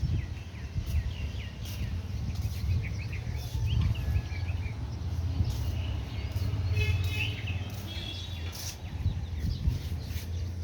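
Small birds chirping and trilling in short repeated calls over a constant low rumble.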